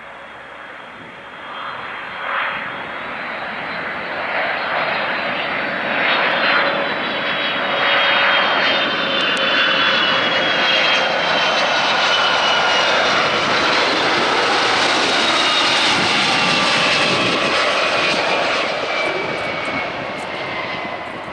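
Boeing 757-200 freighter's twin jet engines as the aircraft passes: the noise builds over the first several seconds, holds loud, then eases off near the end, with a high fan whine that slowly drops in pitch as it goes by.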